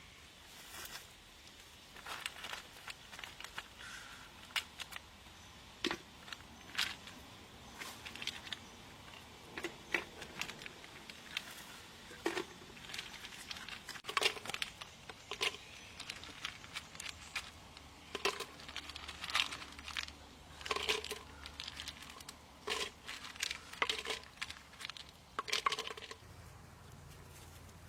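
Irregular crinkling, crackling and clicking of something being handled, sharp crackles coming every second or so, sometimes in quick clusters, stopping about two seconds before the end.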